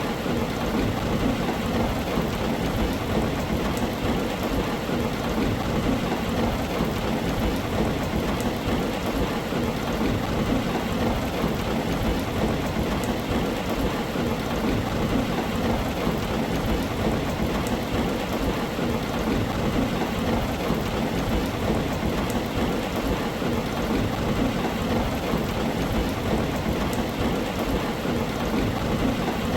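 Heavy rain on a tin roof: a steady, dense patter of drops with a constant low rumble beneath it.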